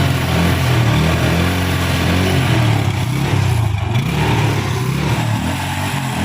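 TVS Apache motorcycle's single-cylinder four-stroke engine being revved, its pitch rising and falling again and again.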